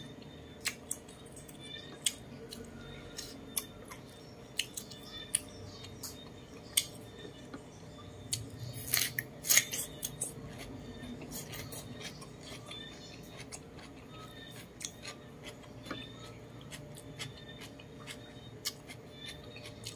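Close-miked eating sounds of roast chicken and fresh cucumber: a steady run of sharp, crisp clicks from chewing and mouth noises. A louder cluster of crunches comes about nine seconds in as the cucumber is bitten.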